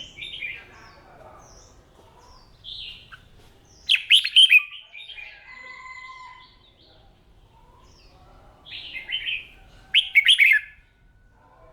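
Red-whiskered bulbul song: short clusters of quick chirping notes, loudest about four seconds in and again near the end, with softer phrases between.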